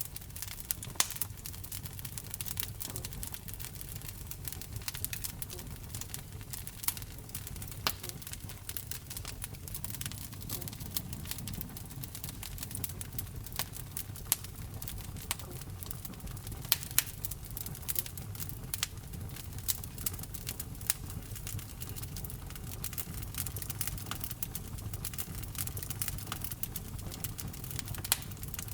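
Wood fire burning in a fireplace: irregular sharp crackles and pops, a few of them louder, over a low steady rumble of the flames.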